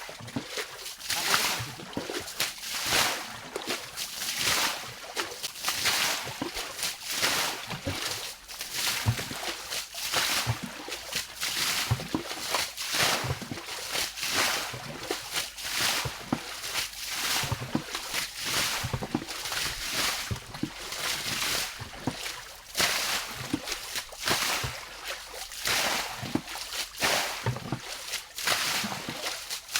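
Shallow water splashing and sloshing in repeated strokes, about one a second, as a pond is drained by hand.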